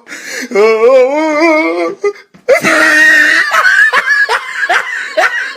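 A person laughing loudly: a long wavering high-pitched laugh, a short break about two seconds in, then a shrill stretch and a run of quick repeated laughs.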